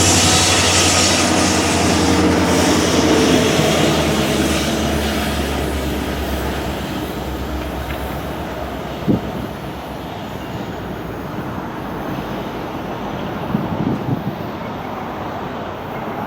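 BNSF freight train rolling past, a steady rumble of wheels on rail that slowly fades as it moves away. There is a sharp knock about nine seconds in and a few lighter ones near the end.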